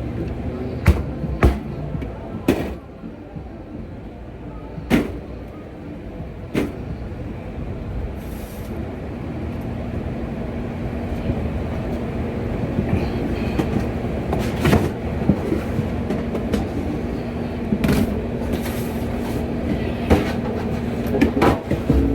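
Food truck kitchen at work: a steady machine hum, with a steadier tone setting in about halfway through, and scattered sharp knocks and clatters of pans, utensils and doors.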